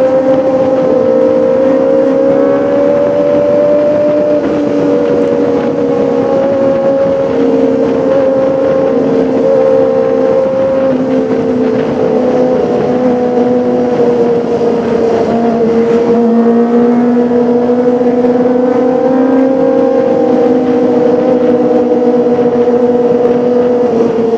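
Kawasaki ZX-25R's 249 cc inline four-cylinder engine running steadily at high revs, its pitch drifting only slightly up and down.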